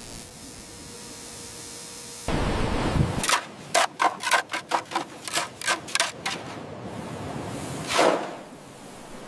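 A quick run of about a dozen sharp knocks, roughly four a second, followed near the end by a single louder swish.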